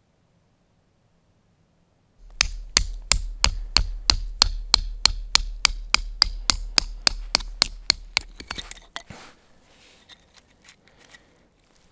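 A rapid, even series of about twenty sharp knocks, roughly three a second, over a low rumble, starting about two seconds in and stopping about nine seconds in.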